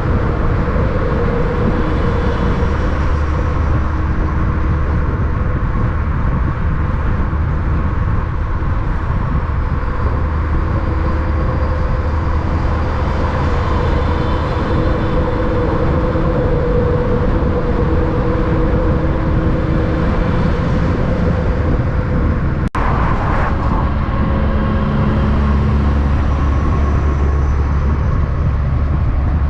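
Steady heavy vehicle engine and road rumble, continuous and loud, with a brief dropout about 23 seconds in.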